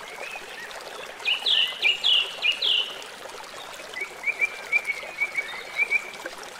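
Birds calling: a quick run of loud, high calls about a second in, then a string of shorter chirps about four seconds in, over a faint steady hiss.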